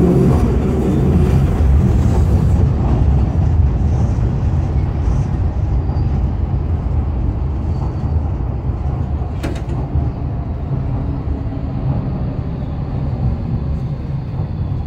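Docklands Light Railway train heard from inside the carriage: a steady low rumble that eases slightly as the train slows into a station. One sharp click comes about two-thirds of the way through.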